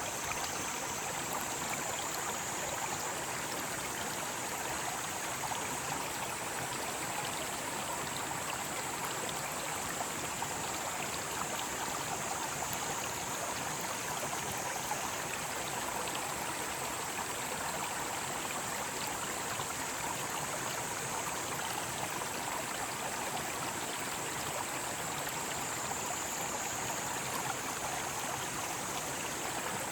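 Mountain stream flowing steadily over rocks, with a high-pitched cicada chorus above the water that swells and fades several times.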